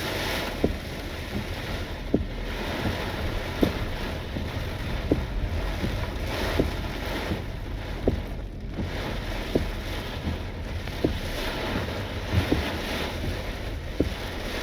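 Steady road and wind noise heard inside a moving car, a low rumble under a hiss, with a faint short tick about every one and a half seconds.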